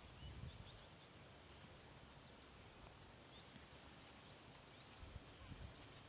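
Near silence outdoors: faint wind rumbling on the microphone in two short gusts, about half a second in and again near the end, with scattered faint high bird chirps.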